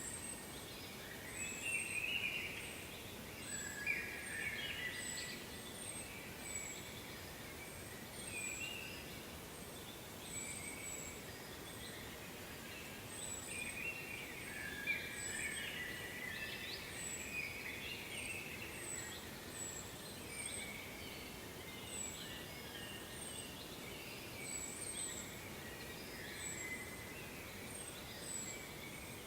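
Songbirds singing in short, repeated phrases, with a thin high chirp coming about once a second throughout. Behind them is a steady, even background hiss.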